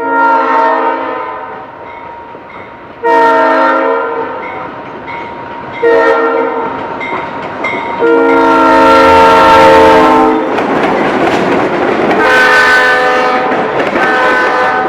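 Diesel locomotive air horn blowing the long, long, short, long grade-crossing signal, followed by two more blasts near the end, with the rumble of the passing train between them.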